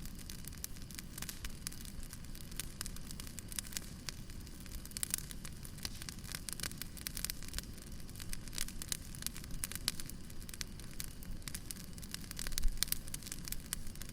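Burning firewood crackling steadily, with many small pops over a low rumble of the fire; a louder low bump comes near the end.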